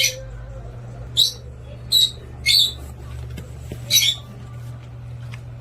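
Pet parrot squawking: five short, high-pitched squawks spread over about four seconds, the one near the middle a little longer.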